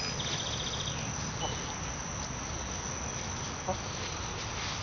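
Steady high-pitched insect chirring from the surrounding grass, with a short fast trill near the start and a few soft, brief chicken clucks.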